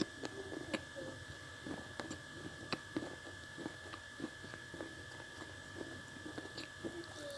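Close-miked crunching and chewing of red slate pencil blocks: many small, irregular, crisp crunches, over a faint steady high-pitched electrical whine.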